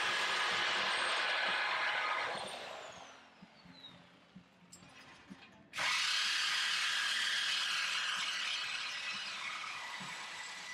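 High-speed power cutting tool cutting through the exhaust pipe to remove the stock mufflers. A steady high hiss winds down with a falling whine about two to three seconds in, then starts again abruptly a little past the middle and runs on, slowly fading.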